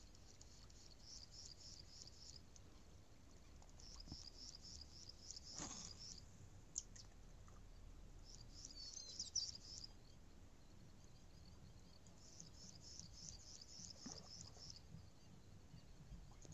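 Faint bird chirping: bouts of rapid high notes about two seconds long, four times, with a couple of short sharp clicks in between.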